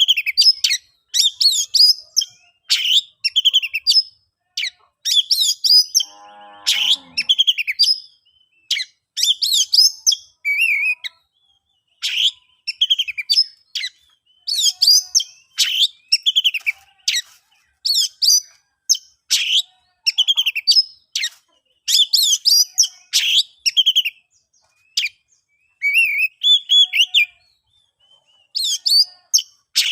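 Oriental magpie-robin (kacer) singing loudly, in quick bursts of varied, sweeping whistled phrases with short pauses between them. About six seconds in there is one lower, buzzier call.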